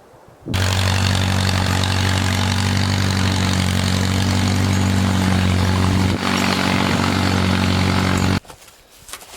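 An engine running steadily at an even speed. It comes in abruptly about half a second in and cuts off just as abruptly near the end.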